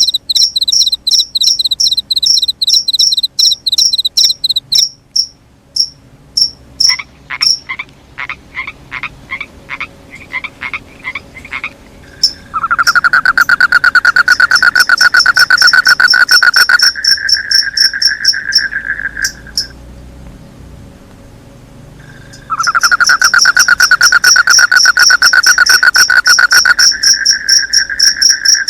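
Night chorus of frogs and crickets. High rapid cricket chirping comes first, then a slower pulsed frog call. After that, two long, loud trains of rapid croaks follow, with a short pause between them.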